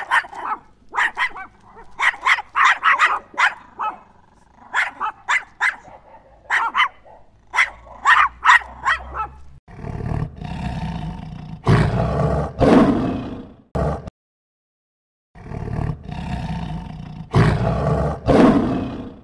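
A dog barking in quick series of short barks, then, about halfway through, long deep roars from a large animal in two bouts with a short pause between.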